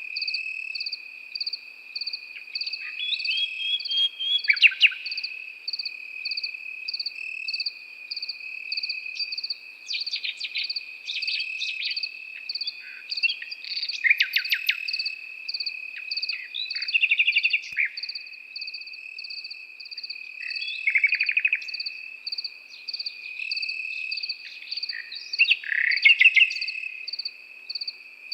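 Nightingale singing in short phrases of rapid, stuttering repeated notes and whistles, every few seconds. Behind it, crickets trill without a break at one steady pitch, and a higher insect chirps in an even pulse a few times a second.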